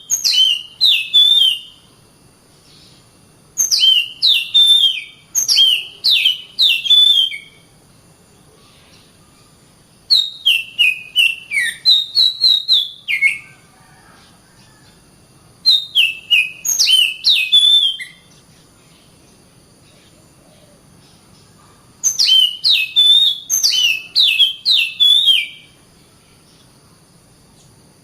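Oriental magpie-robin (kacer) singing in repeated bursts of a few seconds, each made of quick whistled notes that slide down in pitch, with pauses of a few seconds between bursts.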